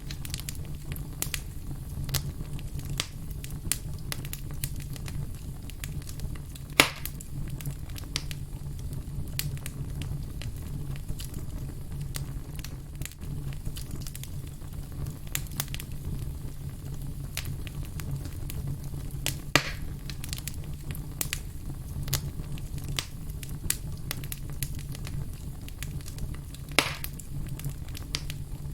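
Campfire crackling steadily over a low rumble, with many small snaps and three louder pops.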